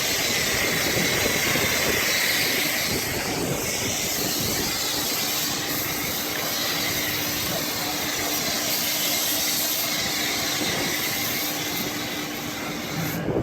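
Pressure-washer dual foamer spraying soap foam in a steady, loud hiss of heated water and soap through the foam nozzle. The spray cuts off suddenly at the very end.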